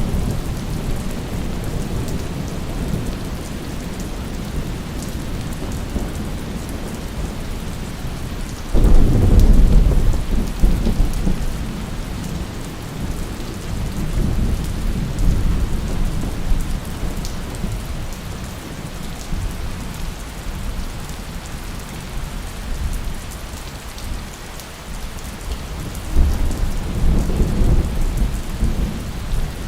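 Steady heavy rain falling, with a loud rumble of thunder breaking in about a third of the way through and rolling away over several seconds, and another rumble near the end.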